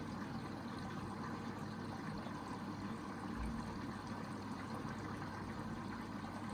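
Hoover VHD 9163 ZI front-loading washing machine taking in water for its first rinse: a steady rush of water filling the drum, with a constant low hum.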